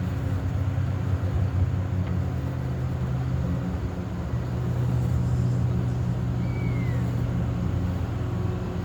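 Passing motorboat's engine running, a steady low drone whose pitch shifts slightly about four seconds in.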